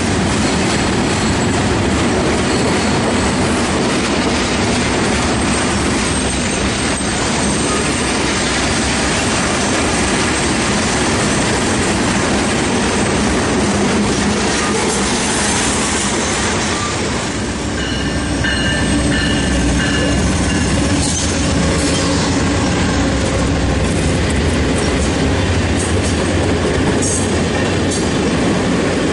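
Freight train's open-top hopper cars rolling past, steel wheels rumbling and clacking over the rail. About halfway through it gives way to an Amtrak passenger train's cars passing, with a brief high wheel squeal soon after.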